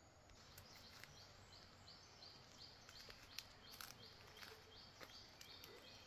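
Faint bird calling a steady series of short, high notes, about two to three a second, starting about half a second in, with a few faint clicks.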